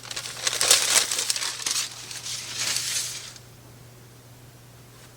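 Parchment paper crinkling and rustling as it is handled, in several bursts of crackle that stop about three and a half seconds in.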